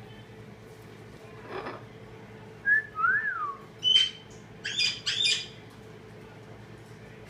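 Pet lovebirds calling: a rough call, then a short whistled note, a whistle that rises and falls, a sharp high chirp, and two quick chirps close together.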